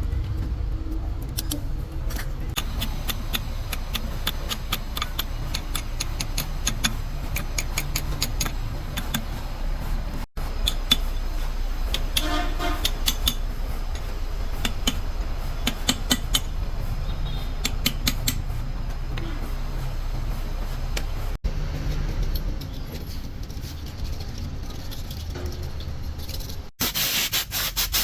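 Workshop work on gearbox parts: a steady low rumble with many light clicks and knocks of parts being handled. The sound cuts off abruptly three times.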